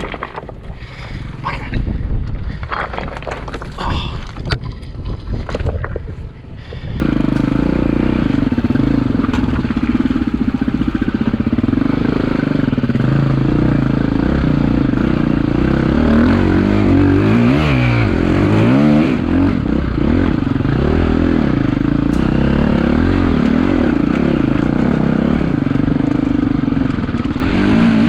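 Irregular knocks and rushing noise for about the first seven seconds, then a four-stroke KTM EXC-F dirt bike engine running steadily on the trail, its revs rising and falling as it is ridden.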